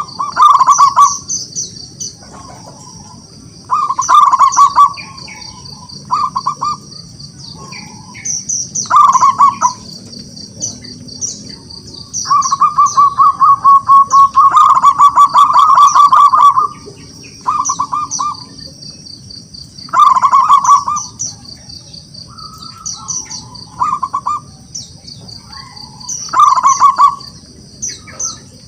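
Zebra dove (perkutut) cooing in repeated phrases of rapid staccato notes, one long drawn-out phrase about halfway through, the territorial call that draws rival males to answer. Higher chirps of small birds and a steady high-pitched drone sound behind it.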